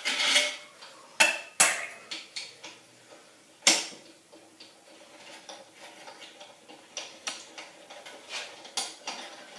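Small engine's steel head bolts clinking against metal as they are dropped into and handled in a magnetic parts bowl. Four sharp clinks come in the first four seconds, then lighter scattered ticks.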